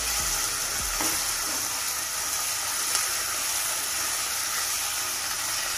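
Chicken pieces sizzling in hot oil in a nonstick pot as they are stirred with a silicone spatula: a steady hiss, with a couple of faint light ticks from the stirring.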